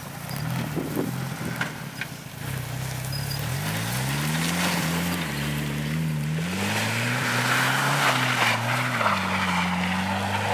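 A 1979 GMC 4x4 truck's engine revving hard in mud. It idles low at first, then revs up about three and a half seconds in and surges up and down several times as the truck struggles through the ruts, its four-wheel drive not working.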